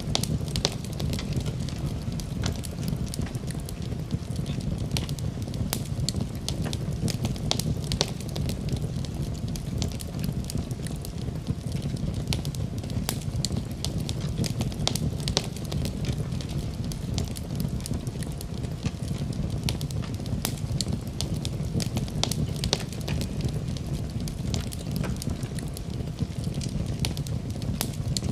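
Wood fire burning in a fireplace, with a steady low rumble and frequent small crackles and pops.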